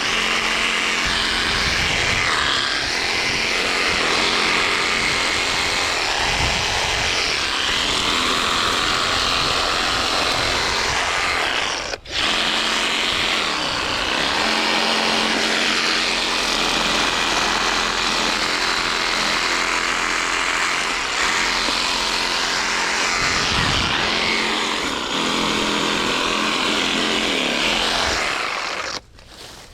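Skil cordless reciprocating saw running steadily as it cuts through branches and brush, breaking off briefly about twelve seconds in and stopping just before the end.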